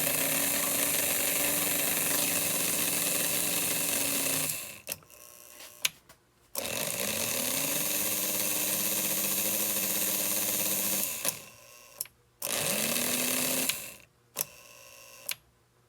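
American Flyer 322 Hudson's electric motor whining up to speed and running steadily, cut off and restarted three times. A single sharp click sounds in each pause, the reverse unit's ratchet stepping as the power is interrupted.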